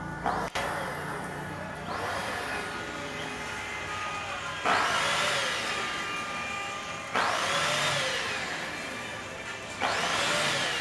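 Vacuum cleaner motor running with a steady whine. Its pitch swells and falls back about every two and a half seconds as it is worked back and forth over a carpet.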